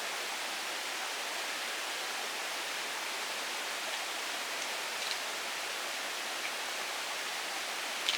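Steady, even rushing of water, with a faint light click about five seconds in and another near the end.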